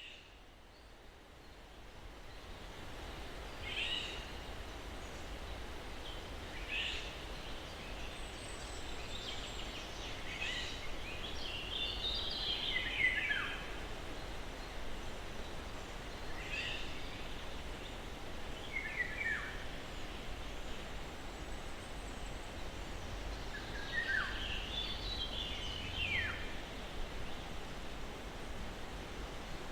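Steady breeze through pine trees, fading in over the first couple of seconds, with birds calling every few seconds: short chirps and quick falling whistled phrases.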